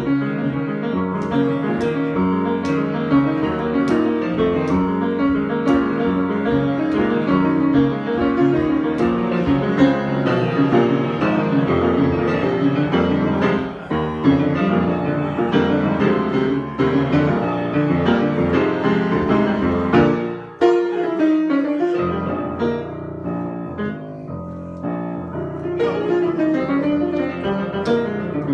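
Solo piano improvising: a dense, continuous flow of chords and runs, with a brief break about two-thirds of the way through, after which the playing is quieter and sparser.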